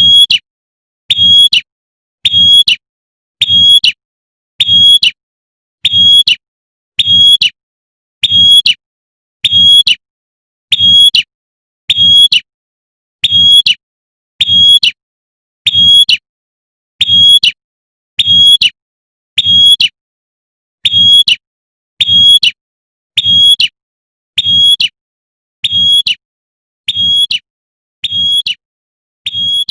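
Female prinia (prenjak) giving its sharp 'tembakan' call over and over, one short loud call about every 1.2 seconds, each with a low thump beneath it. A female's call looped as a lure to draw in males.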